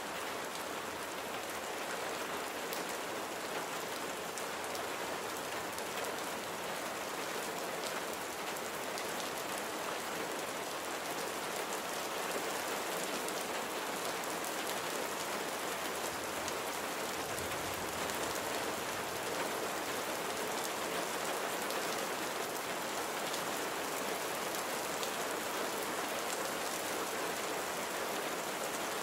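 Steady rain falling, a dense even hiss of drops pattering on surfaces.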